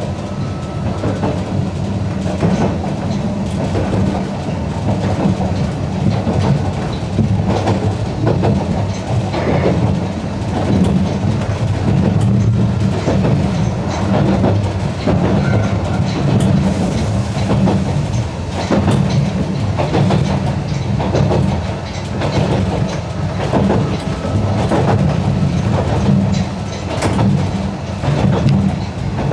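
Narrow-gauge train running, with a steady low rumble and repeated clicking of the wheels over rail joints.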